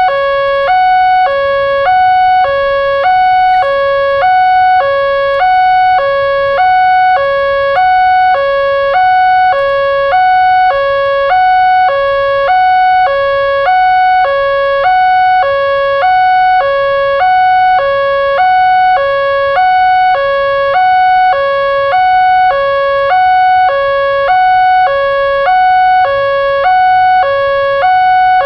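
Electronic railroad crossing warning alarm sounding a steady two-tone chime, a high note and a low note alternating without a break, a full cycle about every 1.4 seconds, over a faint low rumble.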